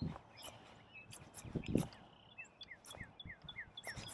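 A bird singing a quick run of short notes, each falling in pitch, about four to five a second, starting a little past halfway. A few soft knocks come before it, the loudest a low knock about two seconds in.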